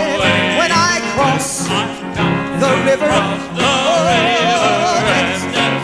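Live gospel song: male voices singing long held notes with vibrato over a band playing a steady beat.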